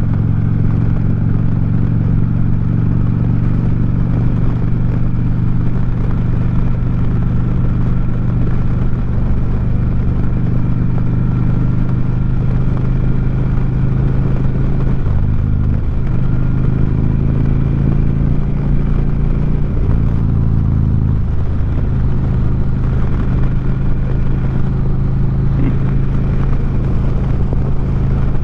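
2009 Harley-Davidson Street Glide's Twin Cam 96 V-twin running through 4.5-inch Sharkroad exhaust under steady riding. The engine note shifts in pitch a few times past the middle.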